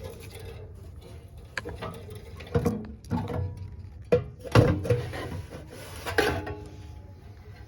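A series of sharp knocks and clinks, about six spread over several seconds, a few ringing briefly after the strike, as of hand tools and metal parts being handled.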